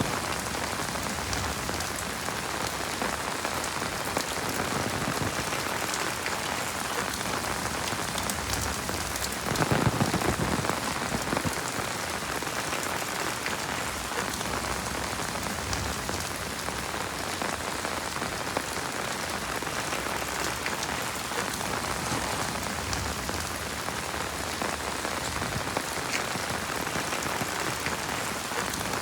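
Heavy rain falling steadily, with a dense patter of drops and a brief louder surge about ten seconds in.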